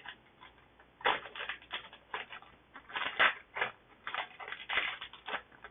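Crinkling of a foil Digimon card booster pack wrapper being handled and opened, a dense run of crackles starting about a second in.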